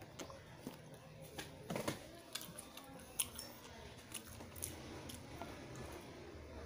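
Close-up chewing of a grilled tuna sandwich on toasted bread, with scattered sharp mouth clicks and crunches.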